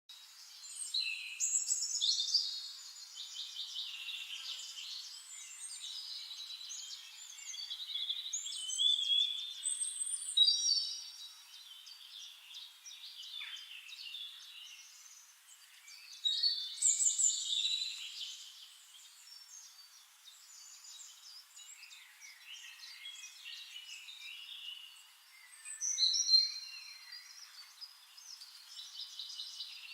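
Songbirds chirping and trilling, several overlapping calls, with louder bursts of song every few seconds.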